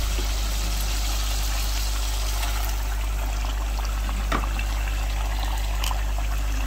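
Chicken pieces sizzling in hot oil in a karahi as tomato purée is added, a steady frying hiss with a couple of faint clicks after about four seconds, over a constant low hum.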